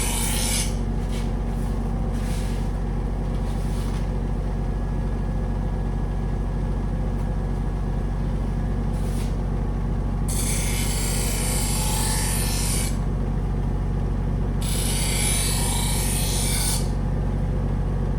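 Belt sander running steadily with a motor hum, as a knife blade is drawn twice across the moving belt, each pass a hissing rasp of about two seconds, about ten and fifteen seconds in: honing the knife's edge.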